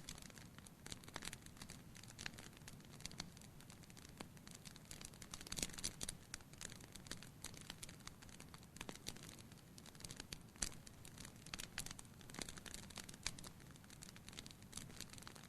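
Wood fire crackling in a fireplace: faint, irregular pops and snaps over a low steady rumble, with sharper snaps about five and a half and ten and a half seconds in.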